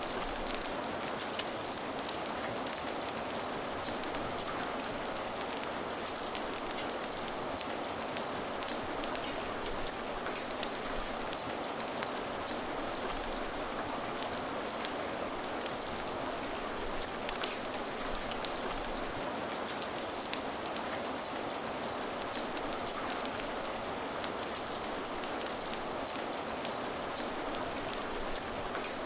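Steady rain: an even hiss of falling rain with a dense patter of drops and scattered sharp ticks.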